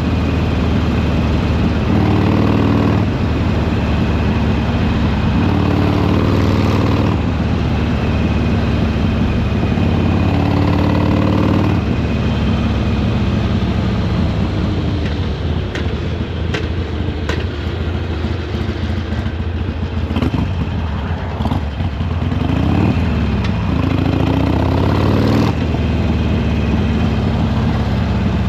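Harley-Davidson Sportster Iron 883's air-cooled V-twin exhaust on the move. The engine rises in pitch under throttle three times over the first twelve seconds, then eases off and slows for a long stretch, and picks up again near the end.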